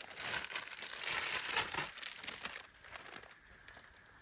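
Rustling and crinkling of gear being pulled out and handled, busy at first and dying away after about two and a half seconds.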